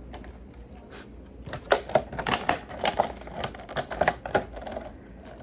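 Eating sounds over the last of a bowl of plain baby arugula: a quick, irregular run of clicks and crunches for about three seconds in the middle.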